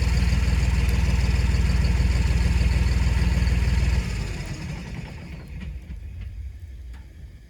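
Tractor diesel engine running steadily with an even low throb, which cuts off suddenly about four seconds in and leaves a much quieter fading sound.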